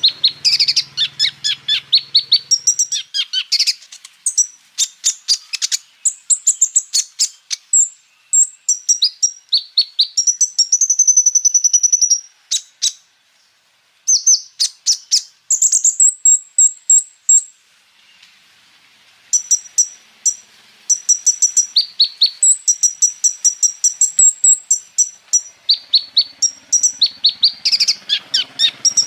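Konin (kolibri ninja), a small cage songbird, singing a long, fast, high-pitched song of rapid chirps and trills. It strings together mimicked phrases of other birds. The song breaks off briefly twice, near the middle and about two-thirds in.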